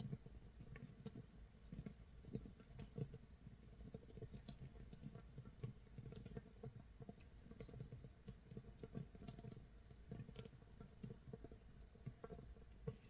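Makgeolli starter mash fermenting in a jar, 24 hours in: a faint, steady stream of irregular tiny pops and crackles as carbon dioxide bubbles burst at the surface, like light rain or a crackling fire.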